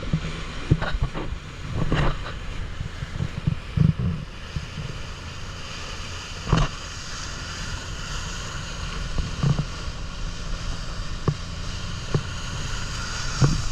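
Boat underway on open water: a steady low rumble with wind buffeting the microphone, and a sharp thump every second or few.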